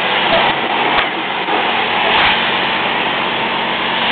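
Car wash equipment running: a steady, loud rushing noise with a low hum underneath and a couple of faint knocks.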